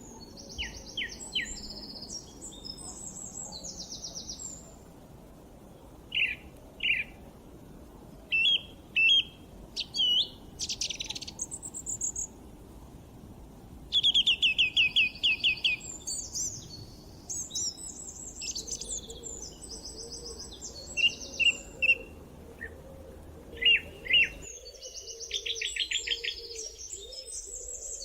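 Wild birds singing: short chirps, whistled phrases and fast trills repeated throughout. A soft low background rush stops abruptly near the end.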